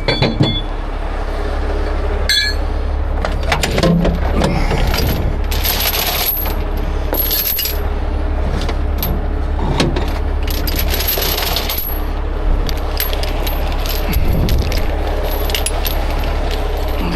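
Heavy half-inch steel chain clinking and rattling as it is handled, in many irregular metallic clanks, over a steady low drone.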